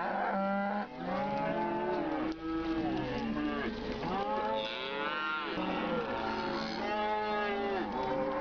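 Several cattle mooing over one another, long calls overlapping almost without a break, many of them rising and then falling in pitch.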